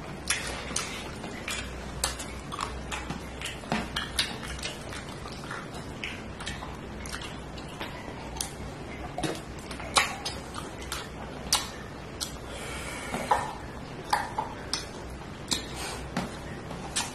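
Close-miked eating: irregular sharp wet clicks and smacks of chewing, with occasional clinks on a plate, over a steady low hum.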